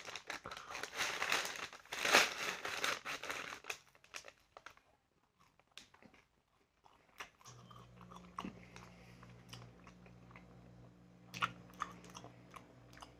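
A paper bag crinkling as a cold churro is bitten into, then chewing; the crinkling and bite are loudest in the first four seconds and the chewing is faint after that. A low steady hum comes in about seven and a half seconds in.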